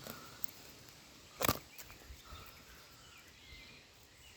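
A single sharp knock of a knife or wood striking wood about a second and a half in, against faint bird chirps and a few light ticks.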